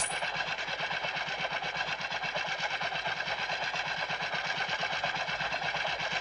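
Motorcycle engine idling with a rapid, even putter.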